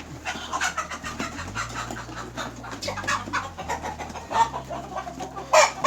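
Adult hens clucking while they eat freshly scattered feed: short, repeated calls throughout, with one louder, sharp burst near the end.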